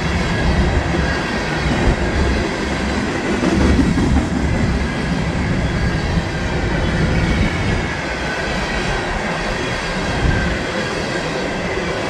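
Norfolk Southern hopper cars rolling past, a steady rumble of wheels on rail with faint high squealing tones. The cars look to be empty, their springs not compressed.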